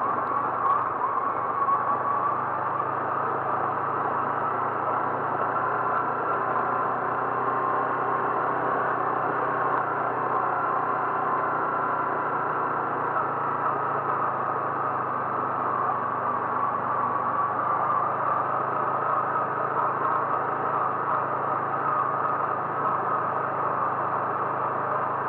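Vehicle engine and road noise, running steadily throughout with a constant low hum while driving.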